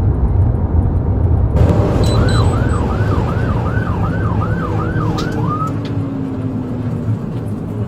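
Police patrol car siren in rapid yelp mode, fast rising-and-falling wails about two a second, starting about two seconds in and stopping near six seconds. Throughout, it sits over a steady low rumble of engine and road noise.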